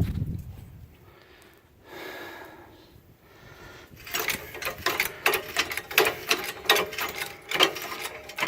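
Hydraulic jack being pumped to lift a pickup truck by its frame: a quick, uneven run of metallic clicks and knocks from the handle and mechanism, starting about four seconds in, after a low thump at the start.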